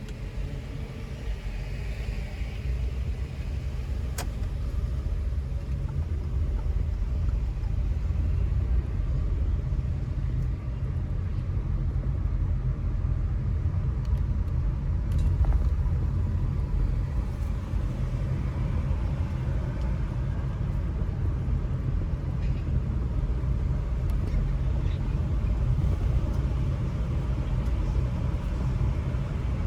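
A car driving on city streets: a steady low rumble of engine and road noise, with a couple of faint clicks.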